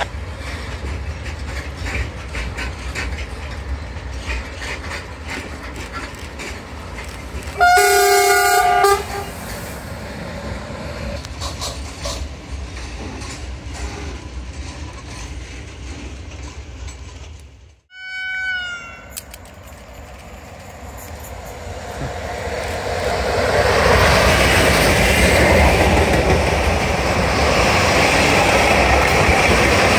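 Electric freight trains running on the rails, with a locomotive horn sounding one blast of about a second and a half about 8 s in and a shorter toot just after 18 s. From about 22 s a long train of covered hopper wagons passes close, its wheel and rail noise growing loud and staying loud.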